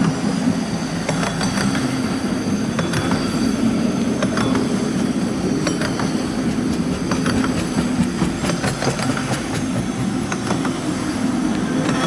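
Cars of a BNSF double-stack intermodal freight train rolling past slowly: a steady rumble of wheels on rail with irregular clicks and clanks from the wheels and couplers, and a faint thin high-pitched wheel squeal.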